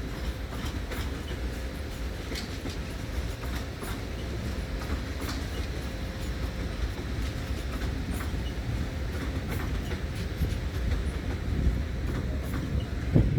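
A passenger train rolling slowly through the station: a steady low rumble with irregular clicks as the wheels pass over rail joints and points.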